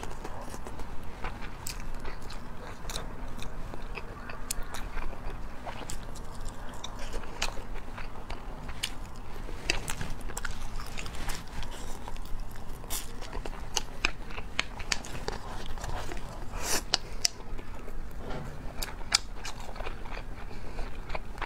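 Close-miked mouth sounds of someone eating egg fried rice with crispy rice crust: steady chewing with many sharp crunches and clicks.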